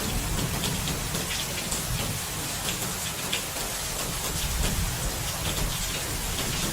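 Steady rain falling, with a patter of drops and a low rumble of thunder underneath.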